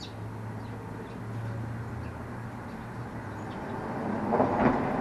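A low, steady vehicle rumble that swells toward the end as it passes, with a few faint bird chirps above it.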